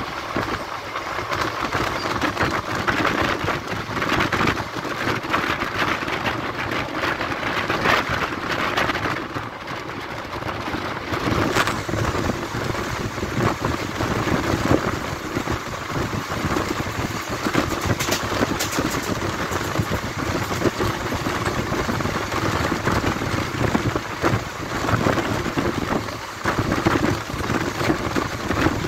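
Passenger train running at speed, heard from an open coach door: a steady rushing rumble of wheels on rail and wind, with occasional sharp clacks.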